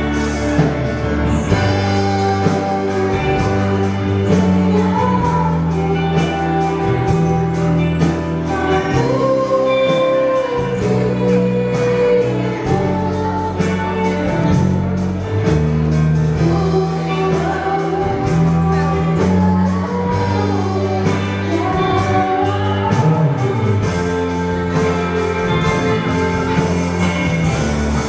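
Sunday-school children's choir singing a praise song in unison, with a steady bass line and a beat from the instrumental accompaniment.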